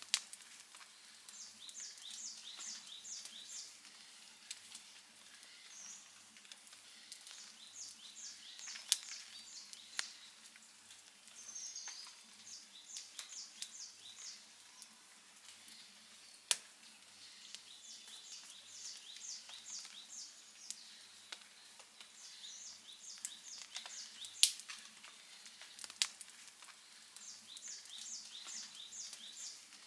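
Outdoor campfire crackling, with a handful of sharp pops standing out over a soft hiss. A run of five or six quick high chirps repeats every few seconds in the background.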